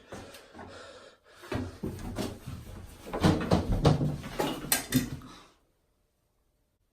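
A run of irregular knocks, bangs and clattering, like doors or cupboards being struck, with scuffling between them. It grows louder about halfway through and cuts off abruptly.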